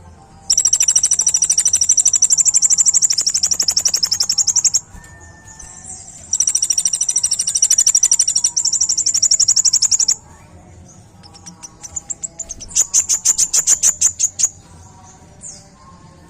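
Kolibri ninja sunbird singing its rapid 'tembakan' song: long, fast, high-pitched trills of rapidly repeated notes, three main runs of a few seconds each with short chirps in between.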